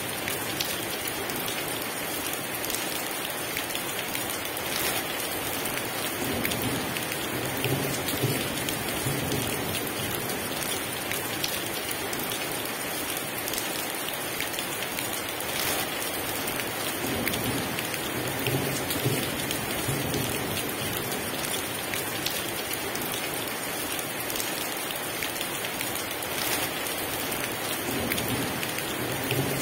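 Heavy rain falling steadily. A low rumble swells and fades about every ten seconds.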